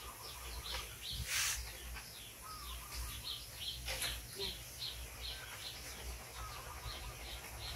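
A bird chirping over and over, short high notes about three a second, over a low background rumble. A brief rustle sounds about a second and a half in.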